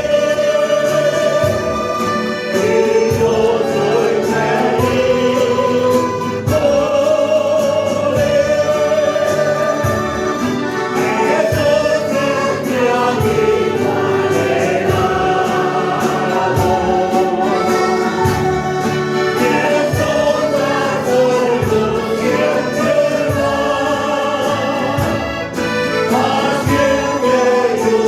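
Church choir singing a Spanish-language hymn, with instrumental accompaniment and a steady beat.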